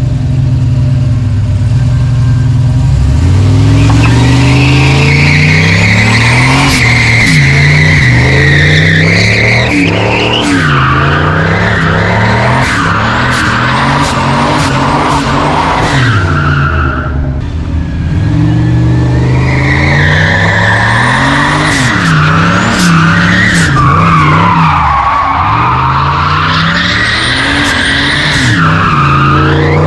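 Turbocharged LS V8 truck engine revving hard again and again, rising and falling, with a high whine or squeal running along with it and sharp high chirps. The sound drops briefly just past the middle.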